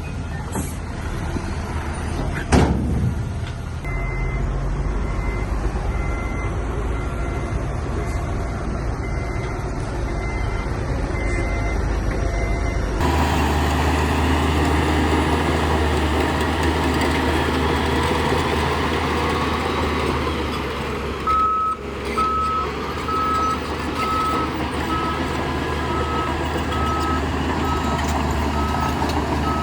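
Diesel engines of heavy earthmoving machinery running, with a reversing alarm beeping about once a second and a sharp bang about two and a half seconds in. After a cut near the middle the engine sound is fuller, and a lower-pitched reversing alarm starts beeping later on.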